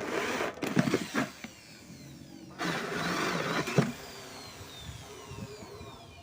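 Electric hand drill boring holes into a used paint bucket: two bursts of drilling, then the motor's whine falls as it spins down.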